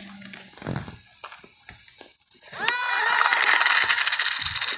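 Small electric RC plane's motor and propeller throttling up about halfway through: a quick rising whine that settles into a steady high whine with airy propeller hiss as the plane starts its takeoff run. Light clicks and knocks come before it.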